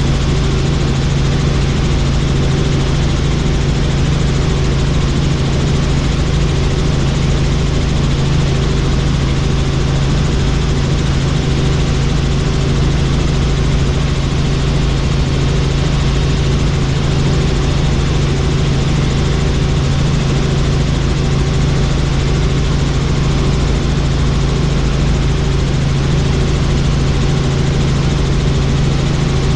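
Helicopter in flight: steady, loud drone of the turbine and rotor, with a low hum and a faint regular pulsing from the blades.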